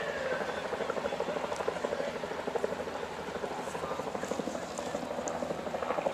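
Helicopter overhead, its rotor beating in a fast, steady chop that eases off a little after the first second, with a faint falling tone at the start.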